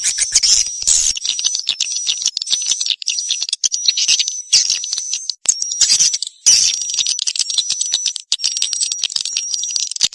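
Swiftlet calls: rapid, dense high-pitched twittering and clicking chirps with a thin steady high tone running through them, of the kind played as a lure call to draw swiftlets to a nesting house.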